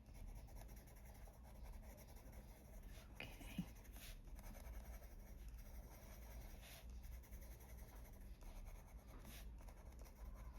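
Coloured pencil shading on paper with light pressure in small circular strokes: a faint, soft scratching.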